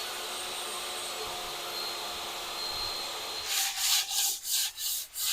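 A small power tool runs steadily for about three and a half seconds. Then it gives way to rhythmic sanding strokes on plywood, about three a second.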